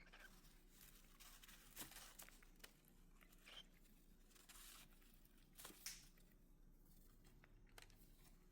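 Faint rustling and scattered light clicks, close to silence overall.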